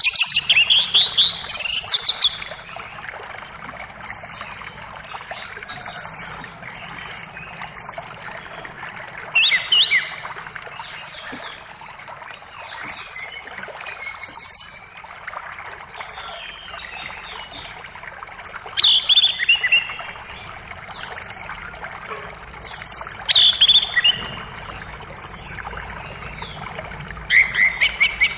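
Songbird calling a short, high note about every second and a half, with a few lower, falling phrases now and then, over the steady rush of a forest creek.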